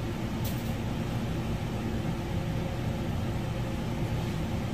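Steady low machine hum with a constant pitch, and one faint short tick about half a second in.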